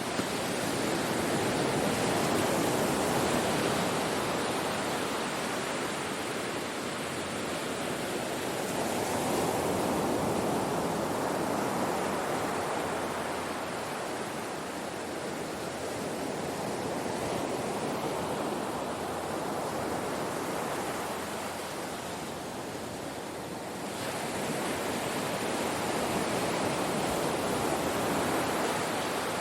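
Ocean waves breaking on a shore: a continuous wash of surf that swells and recedes every several seconds.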